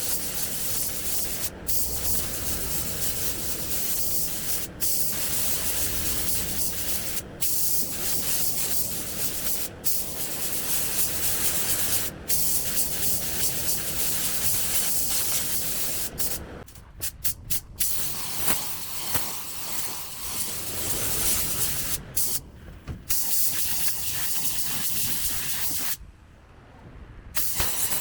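Pneumatic paint spray gun hissing in passes. The hiss cuts out briefly every two to three seconds, stutters in a quick run of short bursts about two-thirds through, and stops for about a second near the end.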